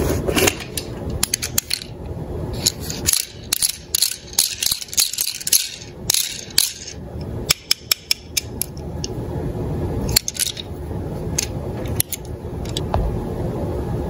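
Small diecast toy cars clinking and clattering against one another and hard surfaces as they are handled, in a quick run of sharp clicks. The clicks thin out after about eight seconds, leaving a steadier low noise.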